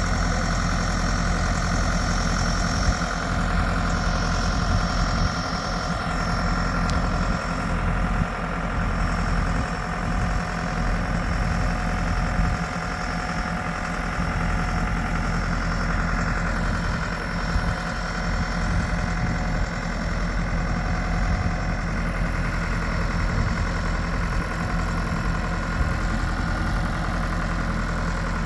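A heavy engine running steadily at a constant speed for the whole stretch, typical of farm machinery at hay time.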